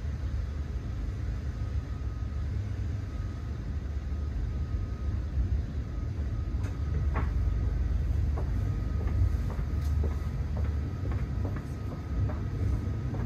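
Steady low rumble inside a B5 passenger coach as the train moves through the station, with a run of short, sharp clicks and knocks from about halfway through.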